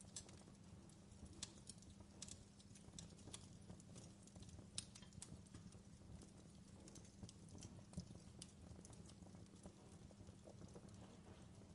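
Fireplace crackling faintly: scattered, irregular pops and snaps over a steady low rumble.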